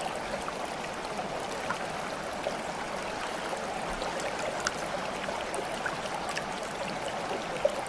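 Steady running water, a small stream trickling and babbling, with many small drips and plops scattered through it.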